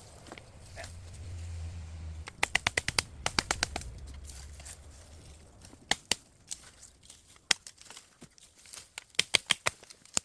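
Bamboo being cut and cleared by hand, giving sharp cracks and snaps: a quick run of about ten a second in the first half, a few single snaps, then another quick run near the end.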